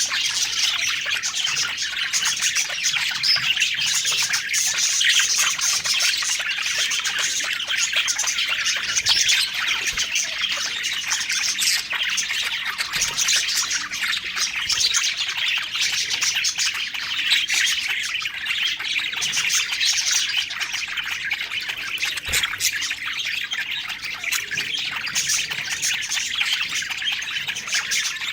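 Many budgerigars chirping and chattering together without a break, a dense layer of overlapping high chirps.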